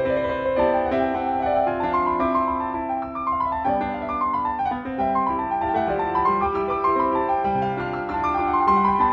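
Background piano music: a gentle melody of rising and falling runs over held bass notes.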